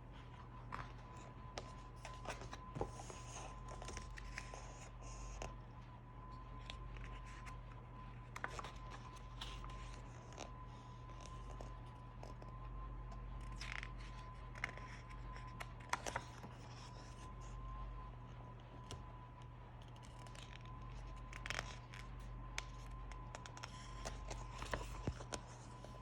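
Irregular scratching, scraping and clicking noises over a steady electrical hum and a faint high whine.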